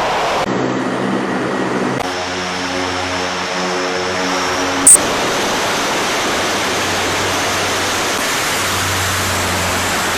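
Military aircraft engines running loud and steady, a dense roar with a droning hum of tones through the first half, changing abruptly at cuts between shots. A sharp, loud click about five seconds in.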